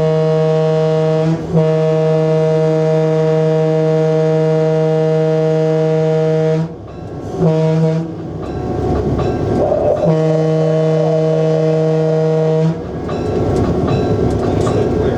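Locomotive air horn sounding the grade-crossing signal of long, long, short, long, heard from inside the cab. The blasts are separated by train running noise, which continues after the last blast.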